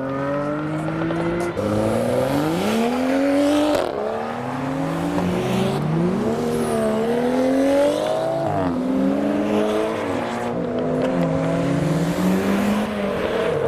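Modified car engine revving hard as cars pull away, its pitch climbing and dropping sharply again and again through the whole stretch.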